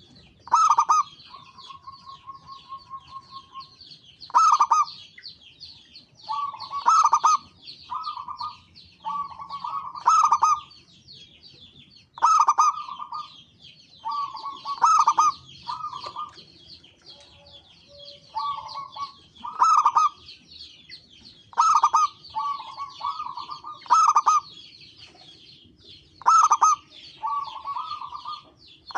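Zebra doves (perkutut) cooing in repeated phrases of short rolling notes, a new phrase every one to two seconds, over a steady high-pitched chirping.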